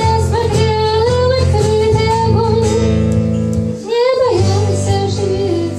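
A woman singing a Russian song to acoustic guitar, holding long notes, with a brief break in the voice about four seconds in.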